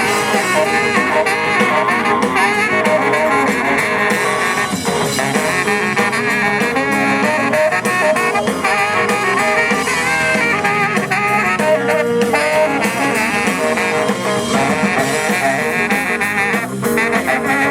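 Live blues-rock band playing an instrumental break, with a lead solo over the rhythm section.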